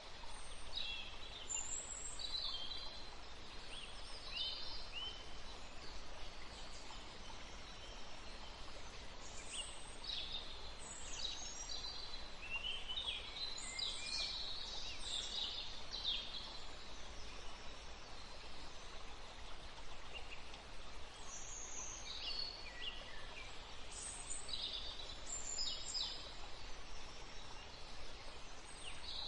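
Small birds chirping in quick clusters of short, high, downward-sliding notes, busiest in the middle and again near the end, over a steady background hiss.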